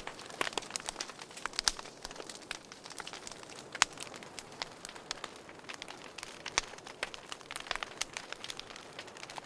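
Wood fire crackling in a fireplace: frequent sharp pops and snaps, irregular, over a faint steady hiss, with a few louder cracks standing out.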